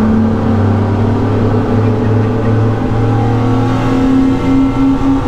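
Twin Suzuki 350 hp V6 outboard motors running hard as the boat accelerates, their pitch climbing slowly.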